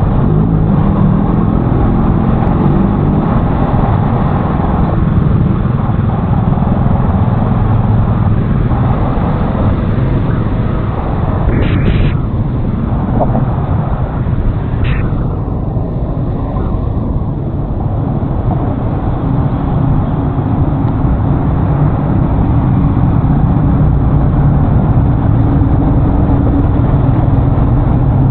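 Honda Forza 350 scooter being ridden: steady engine note buried in heavy low wind rush on the action-camera microphone. Two brief high tones sound near the middle.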